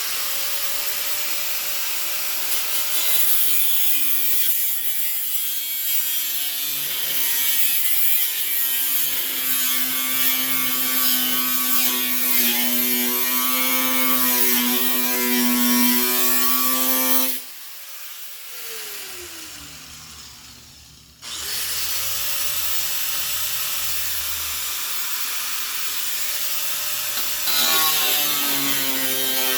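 A handheld power tool cutting into rusty car-body sheet metal, a whine over a harsh hiss, its pitch shifting with load. About two-thirds of the way through it stops and winds down in a falling whine, then starts again about four seconds later.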